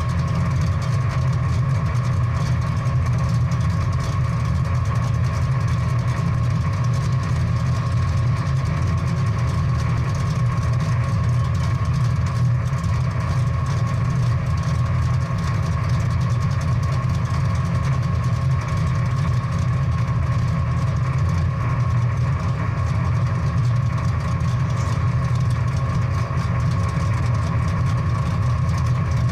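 Big-block V8 muscle car engine running steadily with a low, even sound, no revving or change in pitch.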